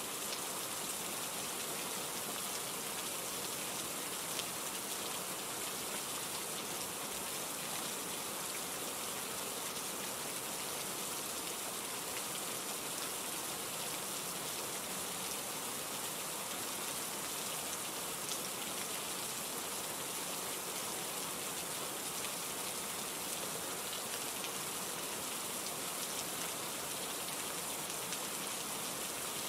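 Steady rain: an even hiss of rainfall with a few sharper drop ticks scattered through it.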